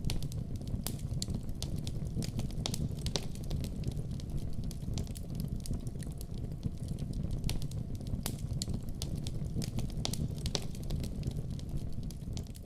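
Wood fire burning in a fireplace: a steady low rumble of flames with frequent sharp pops and crackles of burning logs.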